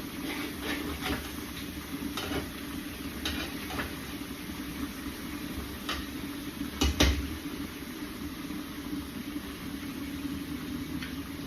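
Cooking sounds: utensils clinking and knocking against pots and pans over a steady low hum, with one louder knock about seven seconds in.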